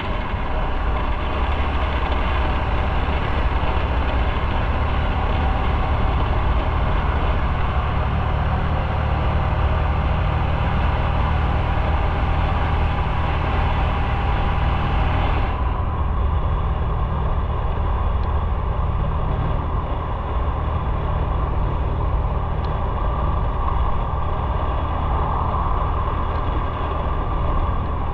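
Motorcycle engine running steadily while riding, with a steady low hum under a hiss of road noise; the higher hiss drops off sharply about halfway through.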